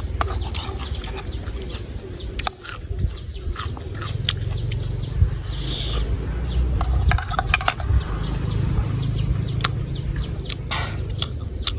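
Close-up eating sounds: a run of sharp mouth clicks and smacks from chewing, over a steady low rumble.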